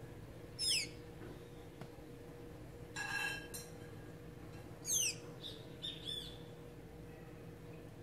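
Blue-gray tanager calling: two sharp, high squeaky notes that slide steeply downward, about four seconds apart, with a harsher note between them and a few softer short notes just after the second.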